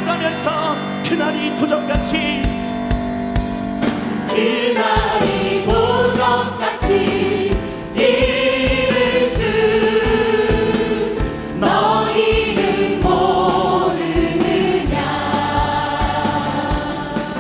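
Congregation and choir singing a hymn to band accompaniment, with a steady drum beat entering about two seconds in.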